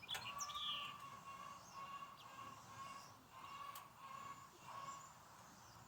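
Faint bird chirps over a thin, wavering steady tone that breaks off now and then.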